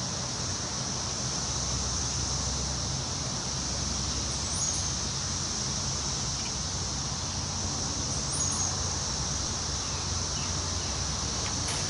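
Wind rustling steadily through forest tree leaves over a constant high insect drone, with brief high bird chirps about four seconds in and again about eight seconds in.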